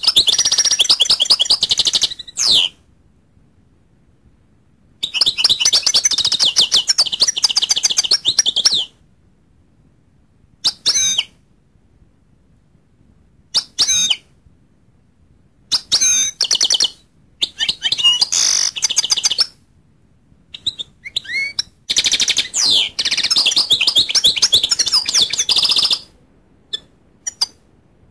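Goldfinch singing: bursts of rapid, high twittering song lasting two to four seconds, broken by pauses and a few short separate call notes.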